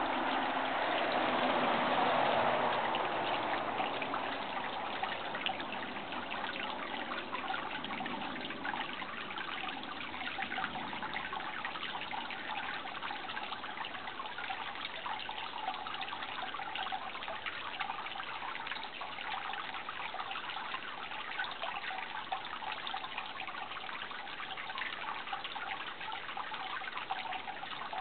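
Running water trickling and splashing steadily, like a small stream, a little louder in the first few seconds.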